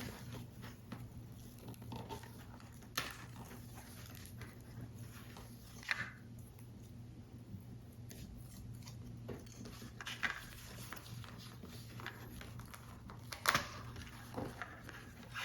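Paper model pieces being handled and worked at close range: scattered crisp clicks, snips and rustles of paper card, four of them louder than the rest, over a faint steady low hum.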